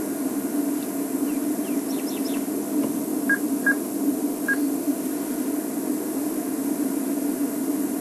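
A steady low hum throughout, with a few bird calls over it: faint quick chirps about two seconds in, then three short whistled notes a little past the middle.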